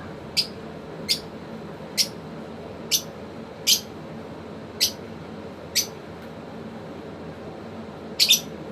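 Lovebird giving short, sharp, high-pitched chirps, seven spaced about a second apart, then a quick double chirp near the end, over a steady low hum.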